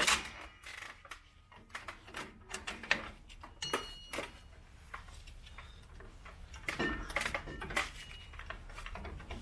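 Scattered light metallic clicks and clinks of a steel parking brake cable and rear brake hardware being handled and worked into place.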